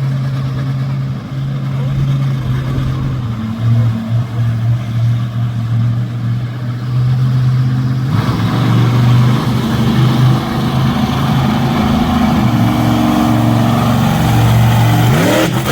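Monster truck engine running, getting louder and rougher about halfway in, with a quick rising rev near the end.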